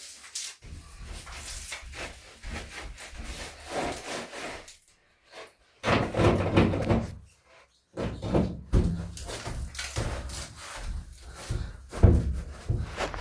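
Repeated rubbing strokes against a hard surface, as in scrubbing, in uneven runs with short breaks about five and about seven and a half seconds in.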